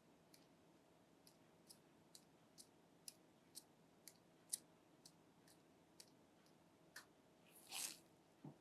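Faint sharp clicks, about two a second, with a brief rustle near the end.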